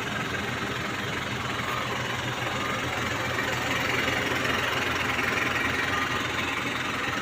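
Mitsubishi Canter FE SHDX diesel truck engine idling steadily.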